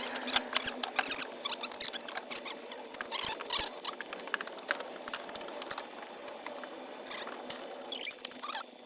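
Irregular light clicks and taps with some scratching, thick in the first few seconds and thinning out after that.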